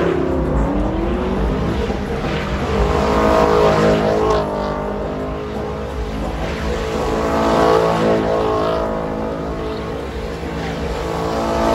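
Car engine revving hard during a burnout in heavy tyre smoke, the revs climbing and dropping several times.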